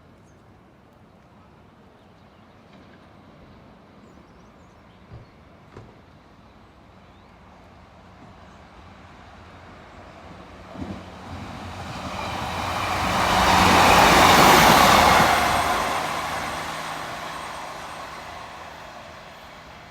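A diesel train approaching and passing through, growing steadily louder to a peak about three-quarters of the way in, then fading away.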